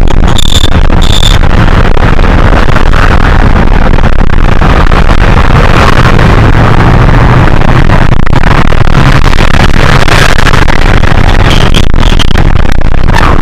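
Hino HS8JRVL city bus heard from inside while it runs: loud, steady engine and road noise, with two short high beeps about a second in.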